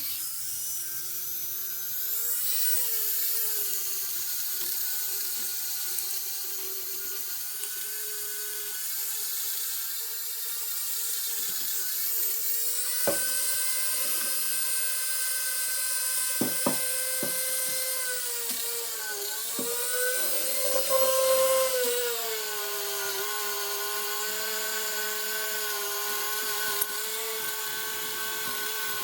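A small high-speed electric power tool running steadily with a high-pitched whine and a hiss above it, its pitch sagging briefly under load now and then, with a few short knocks partway through.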